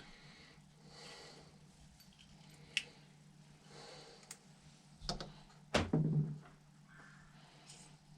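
Small metal clicks and clinks of carburetor parts and hand tools being handled during a carburetor rebuild, a handful of separate clicks with the loudest a little under six seconds in, over a faint steady low hum.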